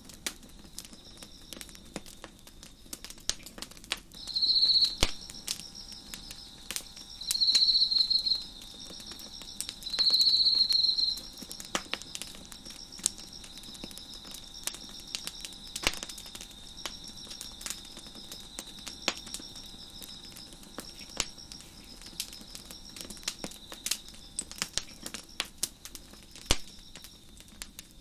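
Wood fire crackling with frequent irregular pops, over a steady chorus of chirping crickets. Three louder trills of about a second each, at the crickets' pitch, come between about four and eleven seconds in.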